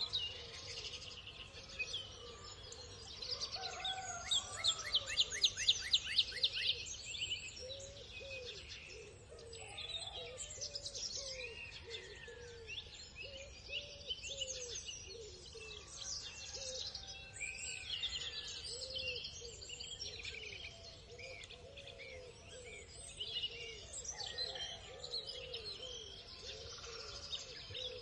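Several birds chirping and calling at once, with fast trills now and then and a run of shorter, lower calls beneath them.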